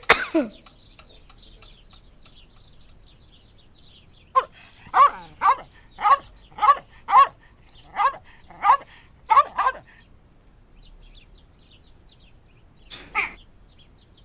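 A dog barking: a run of about ten short barks at roughly two a second, then one more bark near the end.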